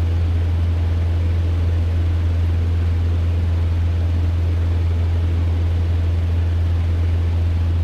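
Cessna 150's four-cylinder Continental O-200 engine and propeller droning steadily, heard inside the cabin during a go-around climb.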